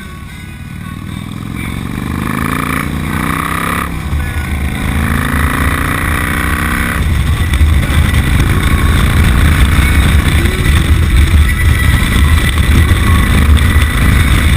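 Motorcycle engine accelerating, its pitch rising, with a brief break near four seconds as it shifts up a gear. It pulls up again, and from about seven seconds gives way to a loud, steady low rumble as the bike runs at speed.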